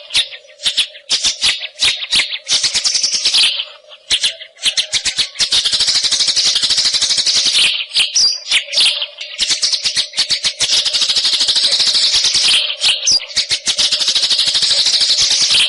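White-rumped shama (murai hutan) singing a fast rattling, chattering song: long rapid trills held for two or three seconds at a time, broken by short gaps and quicker notes.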